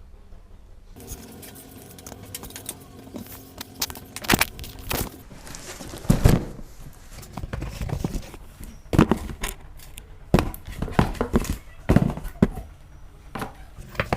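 Irregular knocks, clicks and scraping from hands handling materials and tools while building a foam model airplane. The sounds begin about a second in and come in uneven clusters, the loudest several seconds apart.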